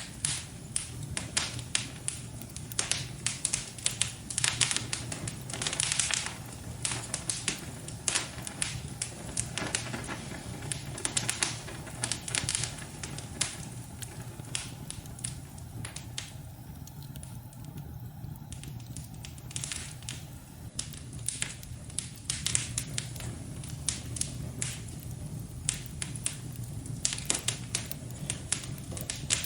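Wood fire crackling in a fireplace: frequent sharp pops and snaps over a steady low rumble. The crackling eases off for a few seconds a little past the middle, then picks up again.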